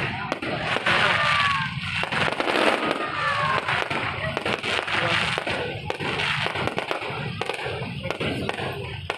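Aerial fireworks display: a continuous run of bangs and crackling, with two falling whistles in the first few seconds, over crowd voices.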